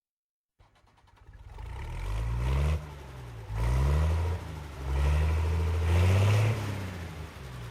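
A tractor engine running and being revved up three times, its pitch rising with each rev and falling back between them.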